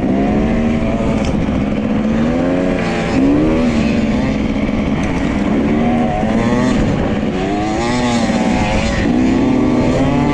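Dirt bike engine running under way, its pitch rising and falling again and again with the throttle and gear changes.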